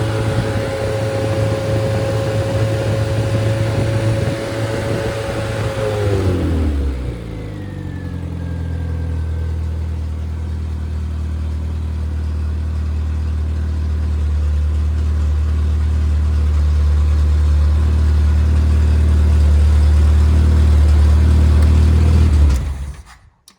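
Freshly rebuilt MG Midget 1500 engine, a Triumph 1493 cc four-cylinder, running at a fast steady speed, then dropping back to a steady idle about six seconds in. Near the end it is switched off and stops abruptly.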